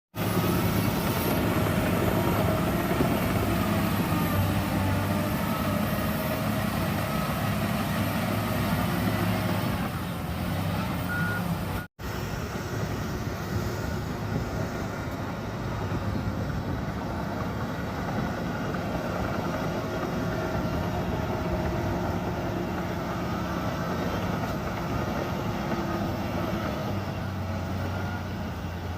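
Bulldozer's diesel engine running steadily under load, with a brief dropout about twelve seconds in where the footage is cut.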